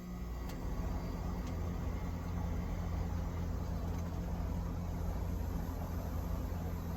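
A steady low mechanical hum, with a couple of faint clicks in the first two seconds.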